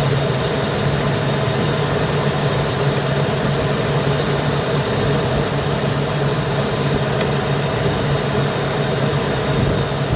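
The 2002 Fleetwood Storm motorhome's engine idling steadily, heard close up with a lot of hiss-like running noise, on its first run after sitting unused for eight years.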